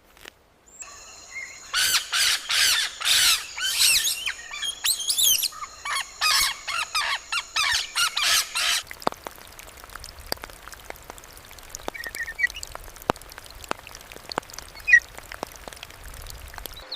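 A bird calling loudly, about two calls a second, for some seven seconds, then stopping. After that come only faint scattered ticks and a couple of faint chirps.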